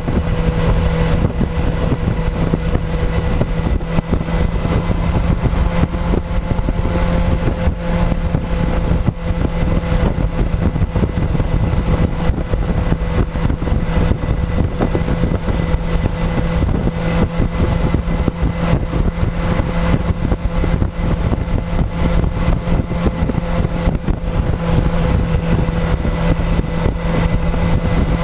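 Motorcycle engine running at a steady speed under dense wind and road noise, heard close up from a camera mounted on the fuel tank.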